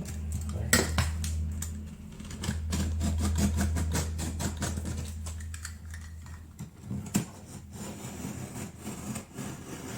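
A blade cutting and scraping the loose paper edge of drywall in a run of quick scraping, clicking strokes. A low steady hum sounds under them and stops about two-thirds of the way through.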